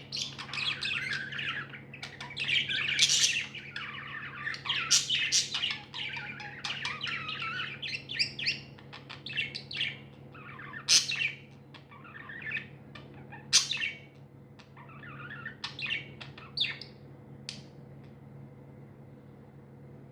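Budgerigars chirping and warbling. The calls are dense and overlapping for the first half, then thin out to separate chirps that stop a couple of seconds before the end, over a steady low hum.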